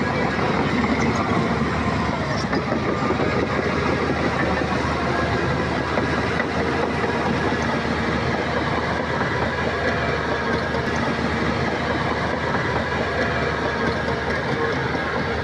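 Heavy diesel earthmoving machinery running steadily under load, a dense mechanical din with no breaks.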